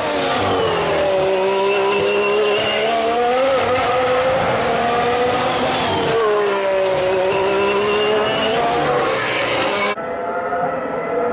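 Formula 1 V6 turbo-hybrid race car engine at high revs, its pitch falling and climbing back twice as the car slows and accelerates again. Near the end it cuts to another recording of an F1 engine running at steady high revs.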